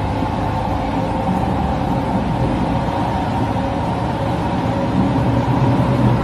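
Subway train running: a steady rumble with a steady hum over it.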